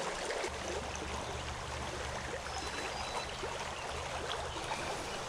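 Creek water running steadily over a shallow streambed, an even rushing noise, with a low steady rumble underneath from about half a second in.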